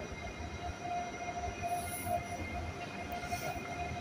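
Double-deck regional train pulling slowly into the station: a low rumble under a thin, steady squeal that swells and fades.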